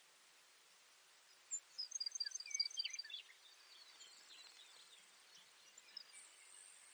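Baird's sparrow singing one song: a high opening note, then a quick run of about six repeated high notes, trailing off into lower, falling notes, over a faint steady hiss.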